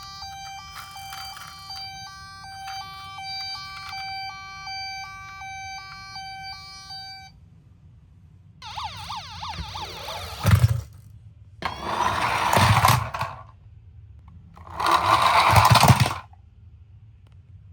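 Toy ambulance's electronic hi-lo two-tone siren (the Japanese 'pee-poh' pattern) alternating steadily between two pitches, cutting off about seven seconds in. Then three loud rattling clatters of plastic toys, each ending in a thud.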